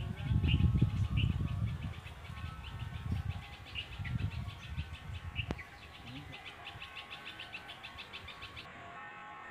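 Small birds chirping in a fast, repeated run of short high notes, over uneven low rumbling during the first half.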